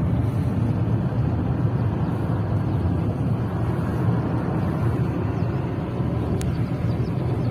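A vehicle driving along the road: a steady low rumble of engine and tyre noise that does not change.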